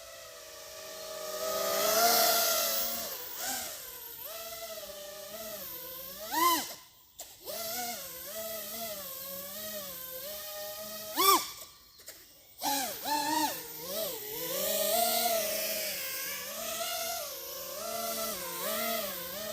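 FPV quadcopter's brushless motors and propellers whining, the pitch rising and falling with the throttle. Twice the pitch climbs steeply and the sound then cuts almost to nothing as the throttle is chopped, before it picks up again.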